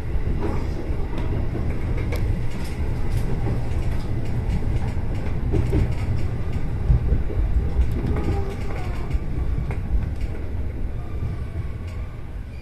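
Electric commuter train running slowly into a terminal station, heard from inside the driver's cab: a steady low rumble with scattered clicks from the wheels over rail joints and points, easing off near the end as it slows.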